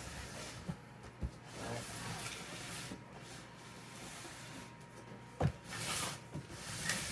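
Cardboard box being handled and turned over: faint rubbing and scraping of cardboard, with a dull knock about five and a half seconds in.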